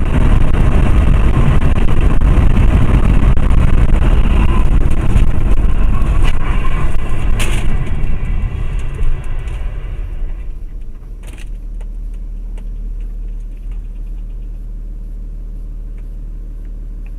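Car driving, heard from inside or on a dashcam: a loud rumble of road and engine noise that drops to a steadier, quieter drone about ten seconds in, with a couple of sharp clicks along the way.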